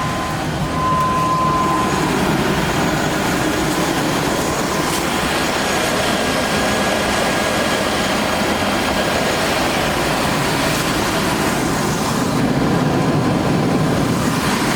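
Pickup truck engine idling steadily. A steady high-pitched tone sounds for about the first two seconds, with one short break.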